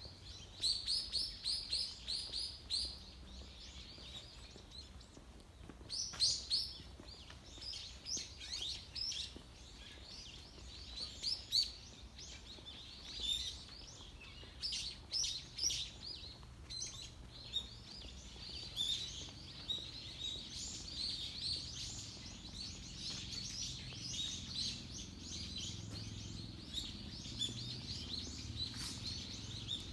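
Small birds chirping, many short high calls in quick runs, with a faint low hum underneath in the second half.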